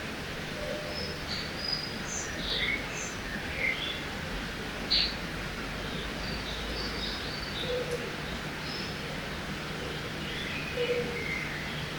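Small birds chirping and calling in short scattered notes over a steady rush of river water, one sharp chirp standing out about five seconds in.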